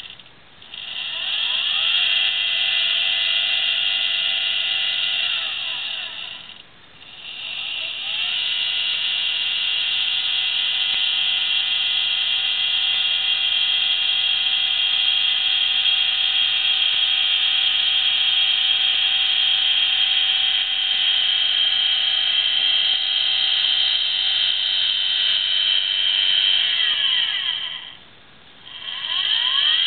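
Celestron CG-5 equatorial mount's motor drive whining as the mount slews. The pitch rises as the motors speed up, holds steady, then falls as they slow to a stop. This happens three times: it stops about six seconds in, runs again for about twenty seconds, stops, then starts once more near the end.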